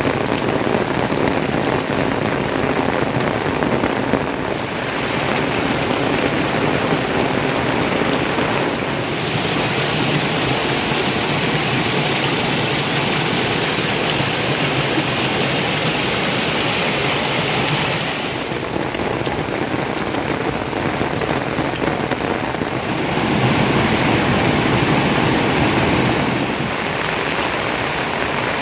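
Steady rain falling, an even hiss of rain on surfaces; its tone changes abruptly every few seconds.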